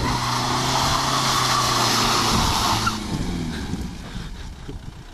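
Car engine running steadily at raised revs with a hissing exhaust note. About three seconds in the revs fall away and it settles to a quieter, uneven idle.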